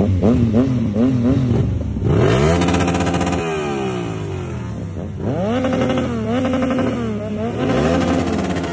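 Yamaha MT-09 inline three-cylinder engine being revved: quick up-and-down throttle blips at the start, then a sharp rise in revs about two seconds in and again past five seconds, each falling back as the throttle closes.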